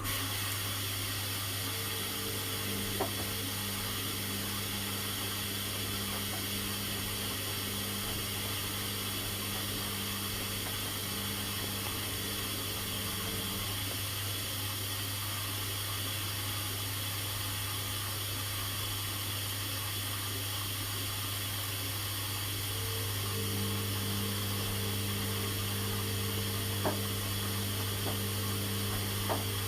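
Washing machine running mid-cycle: a steady hissing rush of water over a low hum. A second, higher motor hum drops out about halfway through and comes back near the end, with a few faint clicks.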